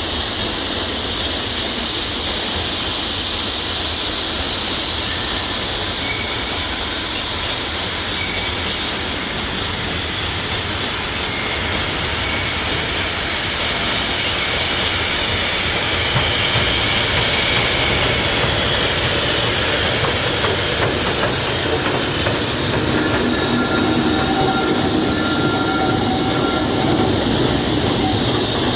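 Freight train running past on the rails, a steady rolling noise of wheels on track with faint high wheel squeals, growing louder about halfway through.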